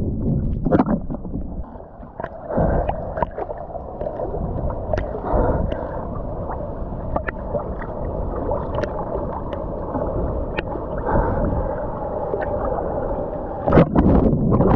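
Ocean water gurgling and sloshing around the camera, with irregular splashes from swimming strokes.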